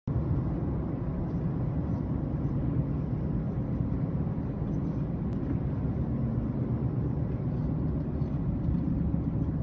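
Steady low rumble of a moving road vehicle: engine and road noise, unchanging throughout.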